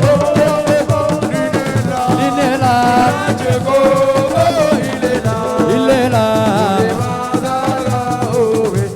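Assiko band music: singing over a dense hand-percussion rhythm.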